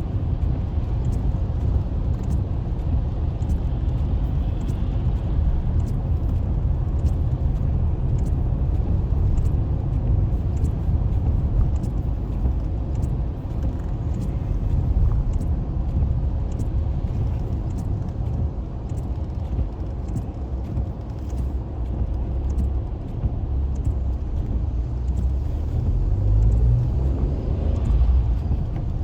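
Car cabin noise while driving on a rain-wet highway: a steady low rumble of engine and tyres. A faint, regular tick comes about every two-thirds of a second.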